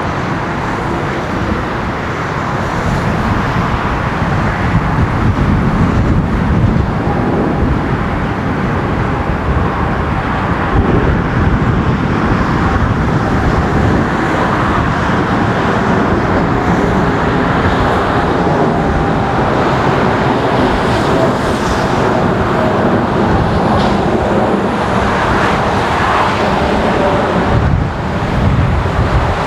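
Boeing 787-9 Dreamliner's jet engines running in a loud, steady roar, with faint whining tones through it.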